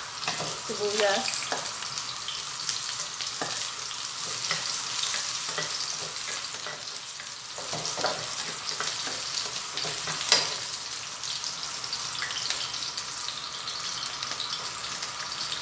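Chopped onion and garlic sizzling in hot oil in a wok, stirred with a spatula that scrapes and taps against the pan, with one sharper knock about ten seconds in.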